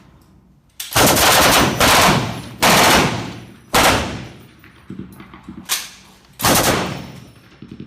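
Belt-fed M240 machine guns firing short bursts of a few rounds each, about five bursts with pauses between them, each burst trailing off in echo.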